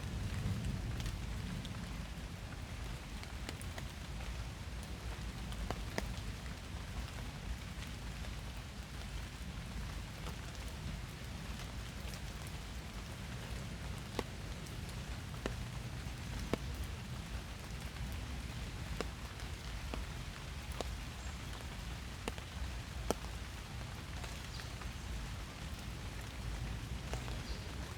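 Steady rain falling in a forest, with individual drops ticking sharply close by at irregular intervals over a low rumble.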